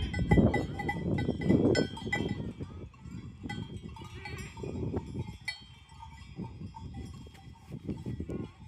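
Goat bells clanking and ringing irregularly as the goats move about, over a low rumble that is loudest in the first two seconds.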